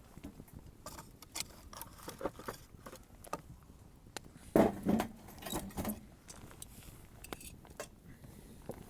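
Wood fire crackling, with irregular sharp pops and snaps and one louder knock about halfway through.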